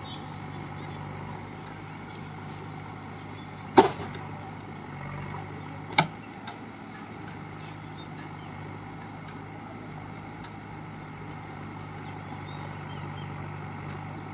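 JCB backhoe loader's diesel engine running steadily, with two sharp knocks about two seconds apart, the first about four seconds in.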